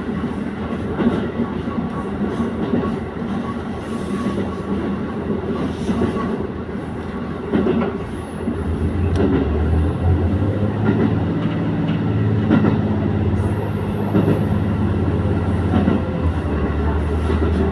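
Diesel train running along the line, with a steady rumble and scattered clicks of the wheels over the rail. About halfway through, a steady low engine drone rises under the rumble and holds.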